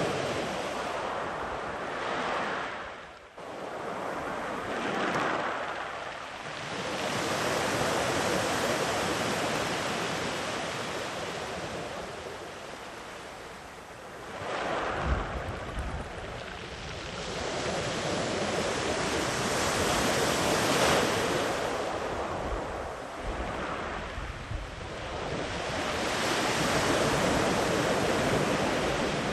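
Sea waves breaking and washing in along the shore, the surf swelling and easing in repeated surges. There is a short lull about three seconds in and some low buffeting about halfway through.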